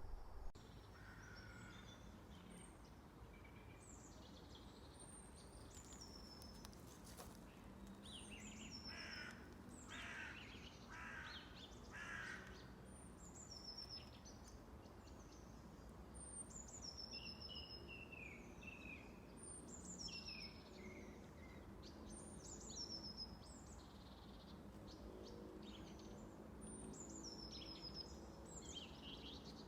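Faint wild birds calling: many short, high notes that slide downward, repeated, with four harsh calls about a second apart near the start, over a faint low hum.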